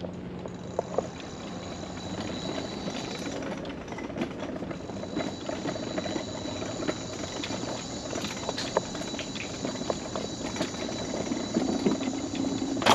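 Electric mobility scooter rolling along a wooden boardwalk: a thin steady motor whine with irregular clicks and rattles from the wheels passing over the planks.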